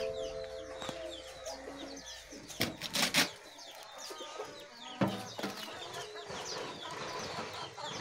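Birds chirping outdoors: many short, quick high calls, with a few sharp knocks about two and a half, three and five seconds in.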